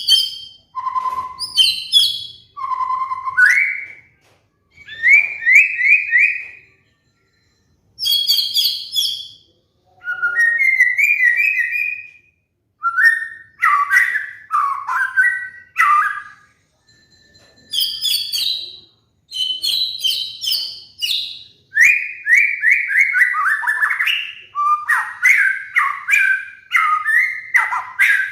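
White-rumped shama singing: a varied run of clear whistled phrases and rapid trills, broken by short pauses.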